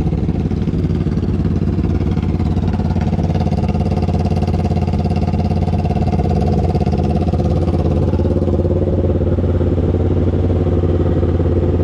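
250 cc parallel-twin sport motorcycle engine running at steady cruising revs, its pitch shifting slightly about halfway through.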